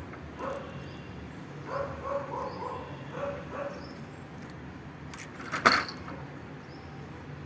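Short, pitched animal calls in a few quick runs, with a single sharp click a little past the middle.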